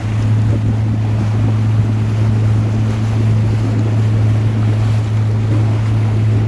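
Boat motor running steadily with a low hum, with wind buffeting the microphone.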